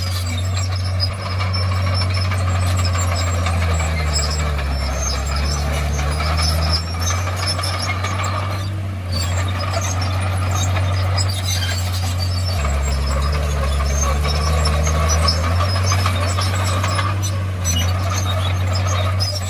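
Komatsu D51PX bulldozer's diesel engine running steadily, its note dipping lower twice, with squealing and clatter from the tracks.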